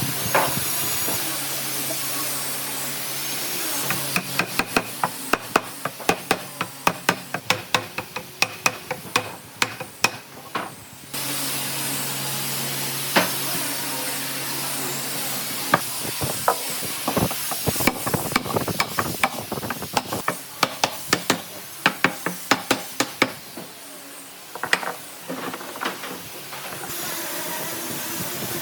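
Fast runs of sharp knocks, about three to four a second, typical of woodworking hammering, over a steady hiss with a low hum. The knocking pauses about eleven seconds in and starts again a few seconds later.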